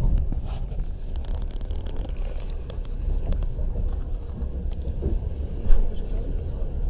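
Passenger train carriage in motion: a steady low rumble of the running gear, with scattered knocks of the wheels over the track and one louder knock near the end.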